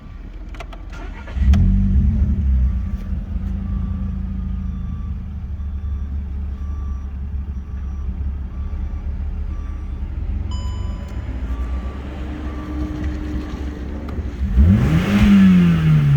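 VW Golf 5's 1.6 FSI four-cylinder petrol engine (BLF) starting about a second and a half in and idling steadily. Near the end it is revved once, the pitch rising and then falling back, to test the engine.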